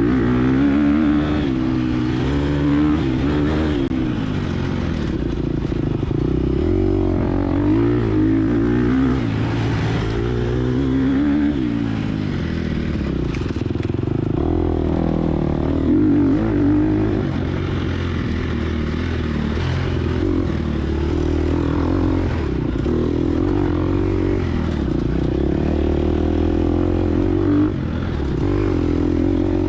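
Gas Gas EX250F four-stroke dirt bike engine being ridden hard, its revs rising and falling constantly with throttle and gear changes.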